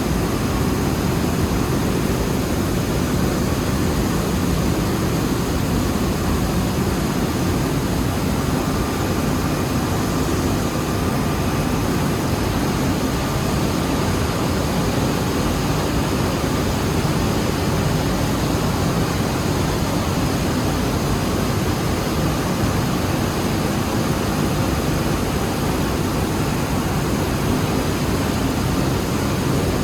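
Rice mill machinery, such as a paddy husker with aspirator, running with a steady, unbroken noise weighted toward a low rumble.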